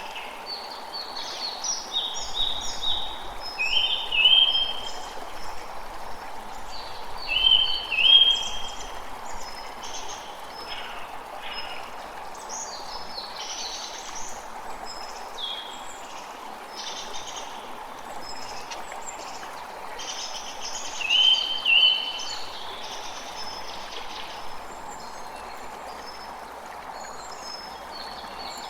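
A creek running with a steady rush of water, and several birds chirping and calling over it. The loudest calls come in short runs of quick notes about 4 s, 8 s and 21 s in.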